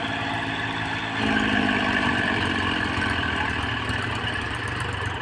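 Tractor diesel engine running, picking up noticeably about a second in and then easing off slowly.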